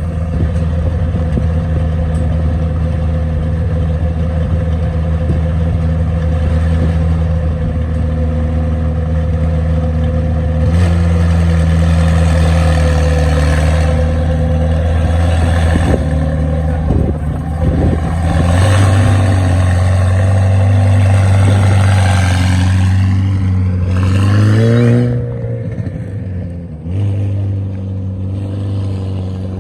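McLaren 720S twin-turbo V8 running at a steady idle through its exhaust. Its pitch steps up twice. Near the end it gives a short rev that rises and falls back to a steady idle.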